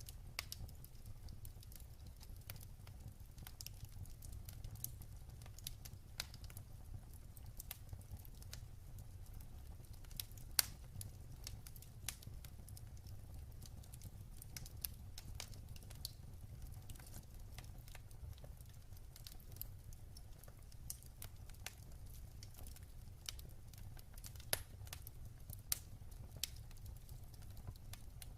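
Wood fire crackling in a fireplace: irregular sharp snaps and pops over a low steady rumble, with the loudest snap about ten seconds in.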